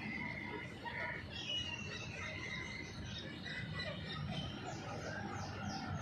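Birds chirping and calling: short whistled notes, then a run of quick falling chirps about five seconds in.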